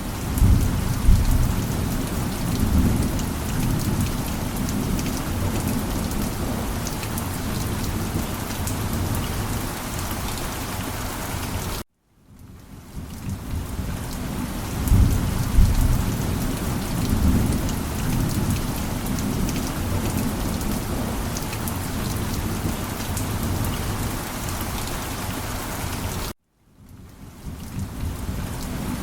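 Steady heavy rain with rolling thunder that swells about a second in, again near the middle and near the end. Twice, about twelve seconds in and near the end, the sound cuts out to silence for a moment and fades back in.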